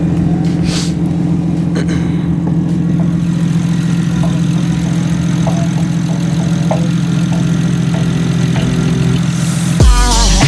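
Single-turbo 2008 BMW 135i's N54 inline-six idling steadily. Near the end, hip-hop music with heavy bass comes in over it.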